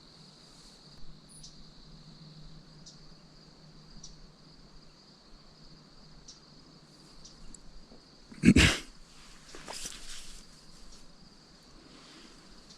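Crickets or other field insects trilling steadily in a high, even chorus. About two-thirds of the way through comes one sudden loud rushing burst with a heavy low end, followed a second later by a softer rustle.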